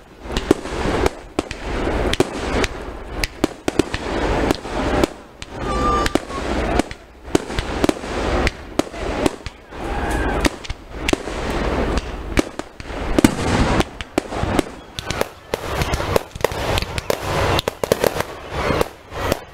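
Fireworks show heard close up: a rapid, continuous run of sharp bangs and crackles from bursting aerial shells, with brief dips in level between volleys.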